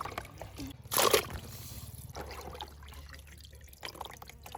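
Water trickling and dribbling, with one short, louder rush of water about a second in.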